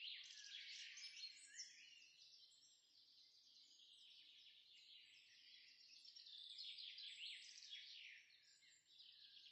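Faint birdsong: several small birds chirping and twittering in quick, high notes, busiest near the start and again about two-thirds of the way through.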